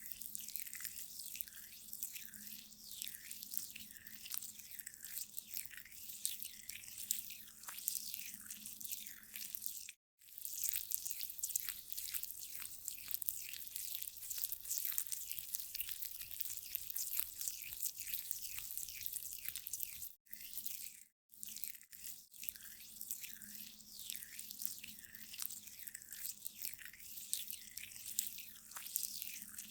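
Close-up facial scrub being worked between fingertips: a dense, wet, gritty crackling made of many tiny clicks. It breaks off briefly about ten seconds in and twice around twenty seconds in.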